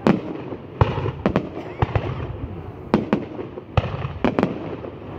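Fireworks going off: an irregular run of sharp bangs, about a dozen in five seconds, some in quick pairs.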